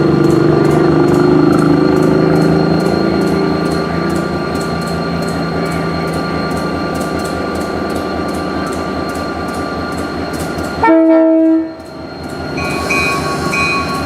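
Locomotive running steadily with a low hum and a regular ticking about three times a second, then a short, loud horn blast about eleven seconds in, after which the sound cuts off abruptly.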